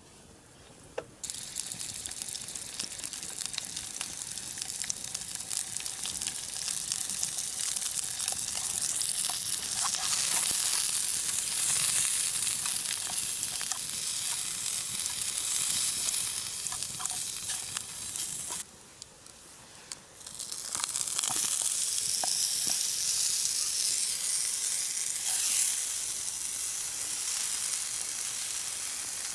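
Food sizzling as it fries in a pan over a campfire, starting about a second in; the sizzle drops away for a couple of seconds about two-thirds of the way through, then resumes.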